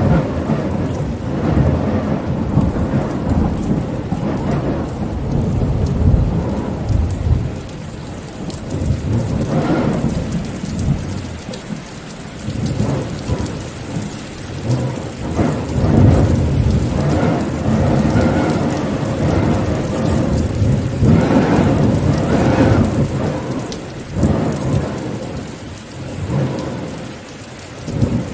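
Heavy rain pattering on a surface, with low thunder rolling underneath in slow swells that rise and fade every few seconds.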